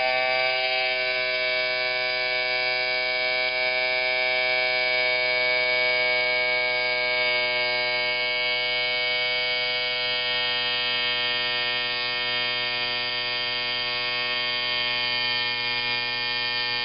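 Philcraft miniature twin-cylinder marine steam engine running fast and steady, its rapid exhaust beats merging into an even buzzing tone.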